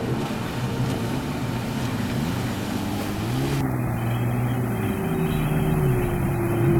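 Jet ski engine running, its pitch rising and falling several times as the throttle is opened and eased off.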